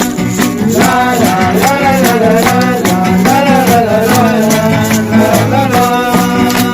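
Voices singing a Spanish-language worship chorus, with maracas or similar rattles shaken in a steady beat.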